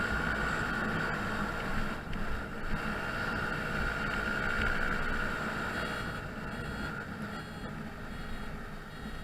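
A Honda Zoomer scooter's 49 cc four-stroke single-cylinder engine running on the road, with wind and road noise. A steady high whine fades out about six seconds in. By the rider's ear there are no noises that shouldn't be there after the drivetrain repair.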